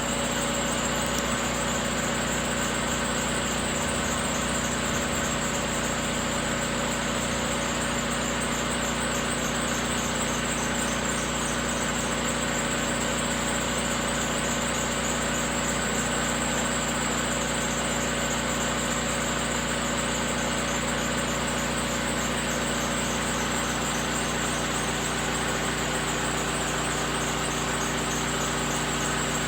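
Diesel engine of a bucket-equipped machine running at a steady speed, with a high-pitched whine over it.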